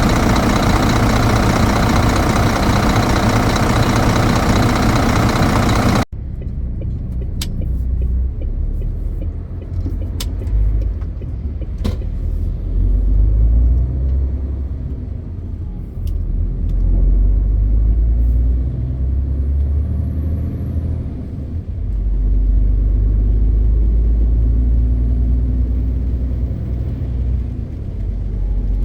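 Loud, even rushing noise that cuts off suddenly about six seconds in, then the low rumble of a MAN TGX 520 truck's six-cylinder diesel engine heard from the cab, swelling and easing with the load, with a few short clicks.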